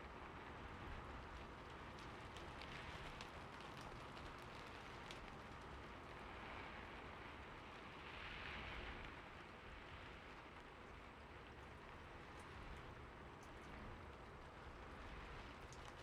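Steady, quiet rain falling, an even hiss with scattered individual drops ticking on a surface and a slight swell about halfway through.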